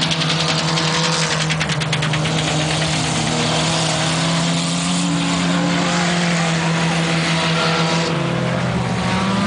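Ice-racing car engines running, several at once, their pitches holding and shifting slightly, over a steady hiss.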